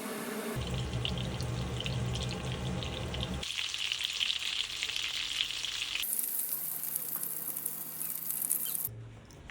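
Food sizzling and frying in a pan, heard in a few short edited clips that change abruptly every few seconds.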